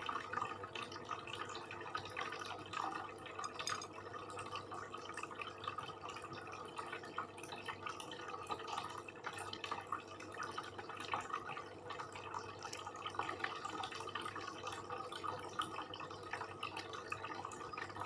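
Close-miked chewing and wet mouth sounds of someone eating sate and rice: a steady run of small smacks and clicks, over a low steady hum.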